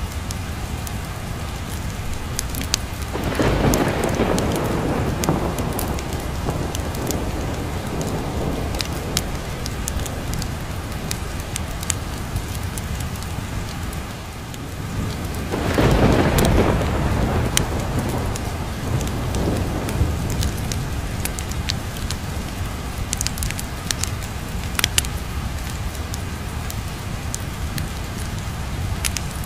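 Steady rain with two rolls of thunder, one about three seconds in and one about halfway, each rumbling away over several seconds. Scattered sharp crackles from a fireplace run through it.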